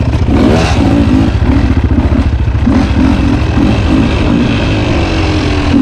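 Two-stroke dirt bike engine revving up and down over and over as the throttle is worked, with a heavy rumble underneath.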